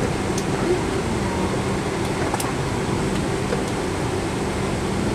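Steady hum of a Boeing 777-200's cabin air conditioning and ventilation, with a low steady tone and a few faint clicks.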